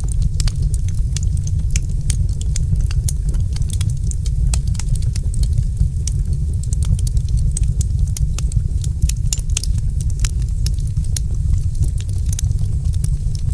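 Log fire crackling in a fireplace: many sharp, irregular pops and snaps over a steady low rumble.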